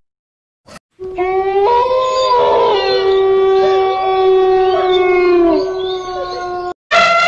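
Dogs howling together in long, steady, overlapping howls, starting about a second in. A fresh howl begins just before the end.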